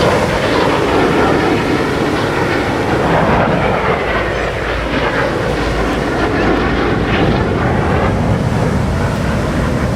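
Jet engine noise from the Thunderbirds' F-16 fighters flying by: a loud, steady rushing rumble with a faint shifting whine, easing slightly toward the end.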